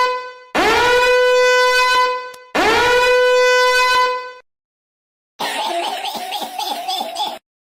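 Meme sound effect of a horn blast held on one loud note, its pitch scooping up at the start; the tail of one blast is followed by two more full blasts. Near the end comes a quieter, rapidly warbling sound.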